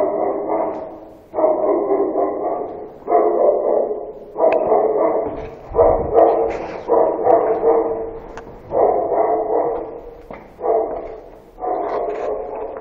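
A dog barking over and over at a steady pace, about one bark every second and a half, each one starting sharply and trailing off.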